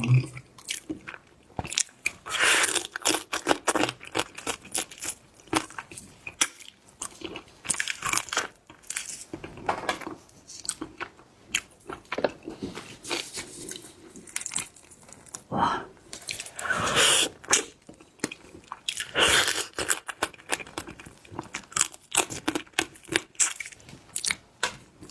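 Close-miked eating of crab: many short, irregular crunches, cracks and wet chewing sounds as the shell is bitten and the soft meat eaten.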